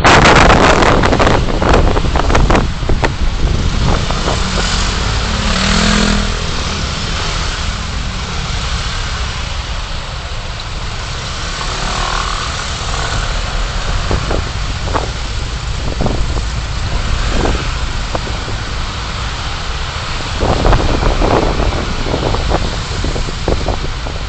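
Car driving, with steady road and engine noise. Heavy wind buffets the microphone in the first couple of seconds, then eases, and a few short knocks come later.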